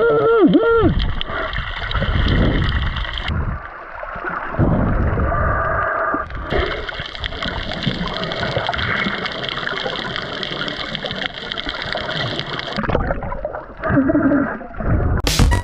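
Sea water gurgling and splashing, in several sections that change abruptly, with a short wavering pitched sound in the first second.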